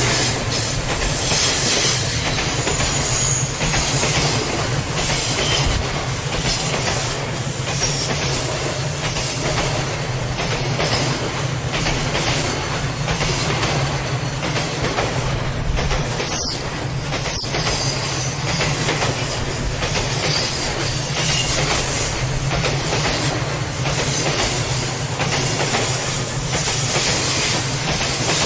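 Train passing over a level crossing: steady running noise with wheels clicking over the rail joints and some wheel squeal.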